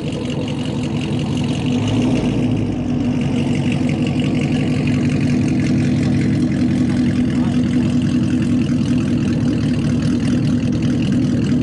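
V8 muscle car engine idling loud and steady, its low rumble swelling slightly over the first couple of seconds and then holding even.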